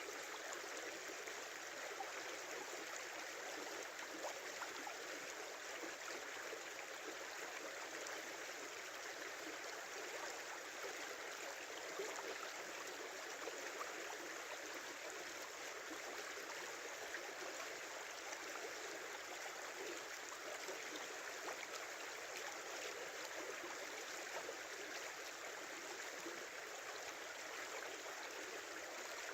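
Small river running steadily over a shallow bed: a continuous rush of water with small irregular gurgles.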